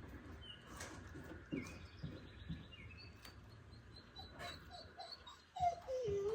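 Small birds chirping, with a few faint clicks. Near the end comes the loudest sound, a short call that falls in pitch, like a dog's whine.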